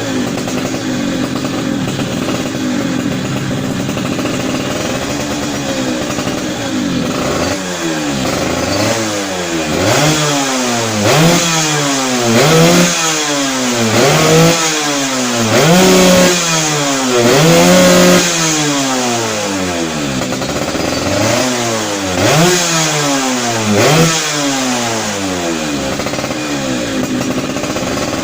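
Yamaha Fizz R two-stroke moped engine running through an aluminium Creampie racing exhaust. It idles for several seconds, is then revved in a series of about a dozen short throttle blips with the pitch climbing and dropping on each, and settles back to idle near the end.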